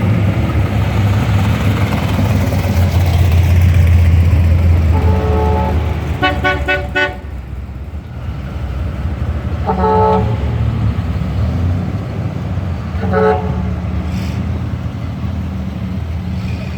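Classic cars cruising past with their engines rumbling, loudest in the first six seconds. Car horns toot over the engines: a quick string of short beeps about six seconds in, then single toots near ten and thirteen seconds.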